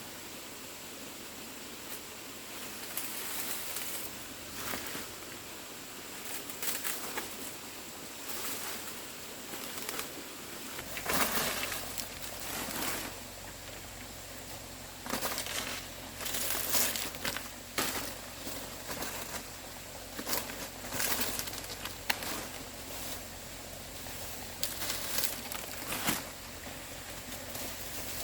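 Irregular rustling and crackling, like dry material being handled, over a steady background hiss; a low hum joins about a third of the way in.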